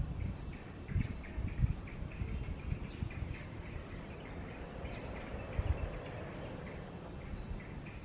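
Small birds chirping in a quick run of short, high notes, busiest in the first few seconds. A few low thumps sound under them.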